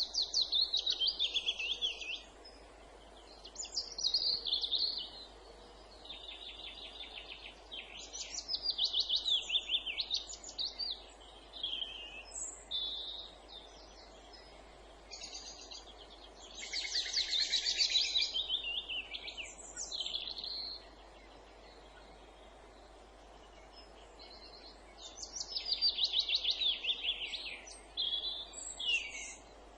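A songbird singing in phrases of fast, trilled notes, each phrase about one to three seconds long, with pauses of a few seconds between them, over a faint steady background hiss.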